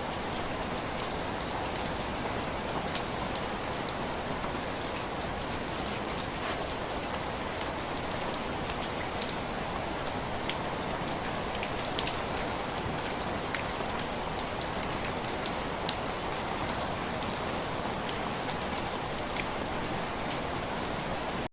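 Steady rain falling, with a constant hiss and scattered sharp ticks of single drops striking a surface, as of rain tapping on window glass.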